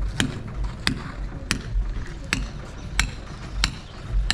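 Repeated hammer blows in a steady rhythm, about one and a half strikes a second, each a sharp crack, typical of hammering at masonry during demolition work.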